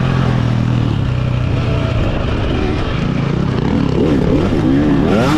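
Dirt bike engine running hard during a desert race, the revs rising and falling quickly again and again from about four seconds in as the throttle is worked.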